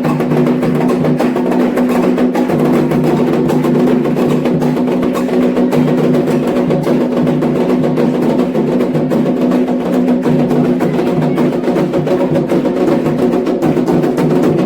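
Candomblé ritual drumming: fast, dense hand-drum beats with a wood-block-like percussion part, over steady sustained tones.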